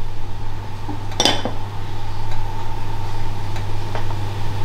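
Kitchen ware clinking: a wooden spatula and a small ceramic plate knock once sharply about a second in, then tap faintly a few times as margarine is scraped off the plate, over a steady low hum.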